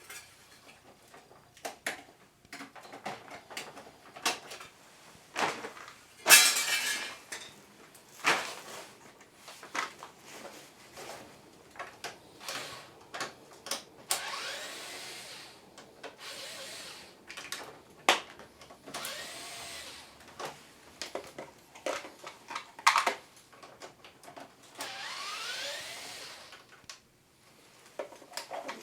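Cordless electric screwdriver running in short spells of a second or two, about four times, backing screws out of an air conditioner's casing, with clicks and knocks of plastic panels and parts being handled in between.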